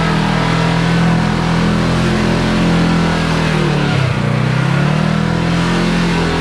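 Side-by-side UTV engine running under way on a trail, its revs dropping briefly about four seconds in and then climbing again as the throttle comes back on.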